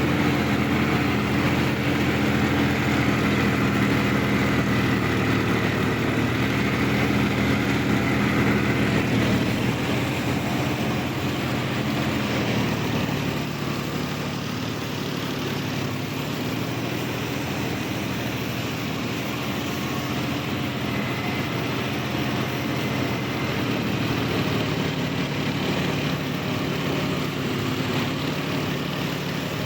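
Sonalika DI 50 RX tractor's diesel engine running steadily, its note dropping a little and getting slightly quieter about a third of the way through.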